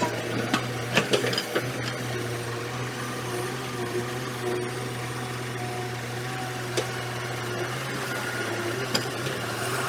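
Excavator's diesel engine running steadily, with a few sharp metallic knocks, most of them in the first second or two.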